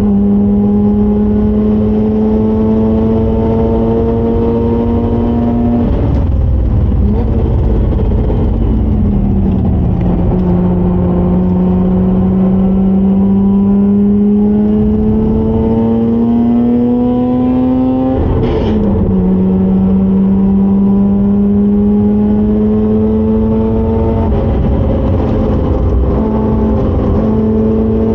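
Mazda RX-8's rotary engine running hard on a race track, its pitch climbing steadily under acceleration for several seconds at a time and falling away three times as it comes off the throttle or shifts.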